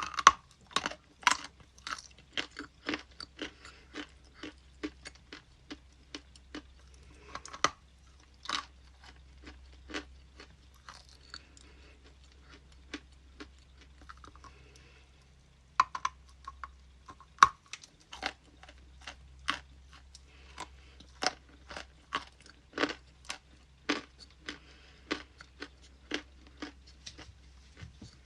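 Ice being bitten and chewed close to the microphone: sharp, irregular crunches about one or two a second, softer for a few seconds in the middle.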